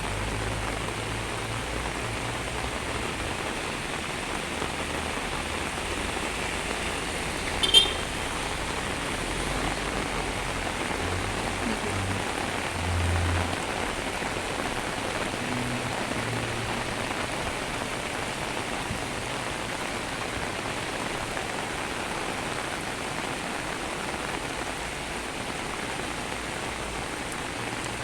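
Heavy rain pouring steadily, an even hiss, with one brief sharp click about eight seconds in.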